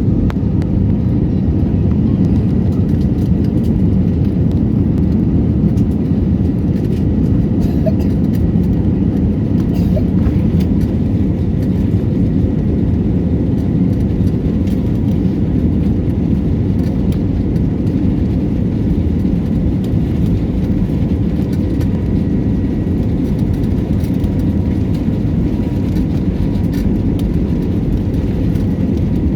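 Jet airliner's engines and rushing air heard from inside the passenger cabin: a loud, steady low rumble with a faint high whine above it.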